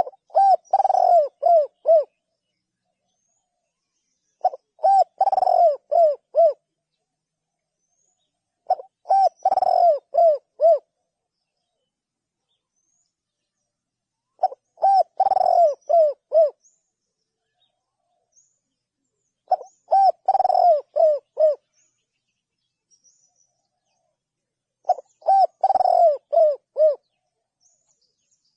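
Spotted dove cooing: six phrases about five seconds apart, each a quick run of short coos lasting about two seconds, with silence in between.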